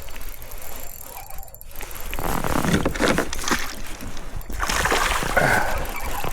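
Water splashing and sloshing beside a kayak in uneven bursts, starting about two seconds in, as a hooked fish is fought toward the boat.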